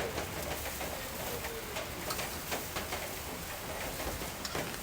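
Rain falling steadily: an even hiss with scattered short ticks of individual drops striking.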